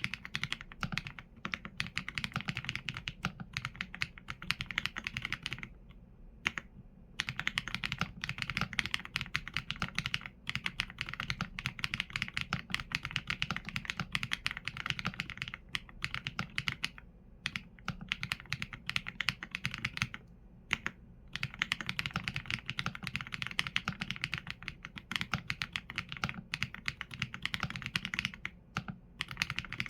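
Mechanical keyboard with Leobog Graywood V4 linear switches and PBT keycaps being typed on steadily: fast runs of keystrokes with a few short pauses, the longest about six seconds in and around twenty seconds in.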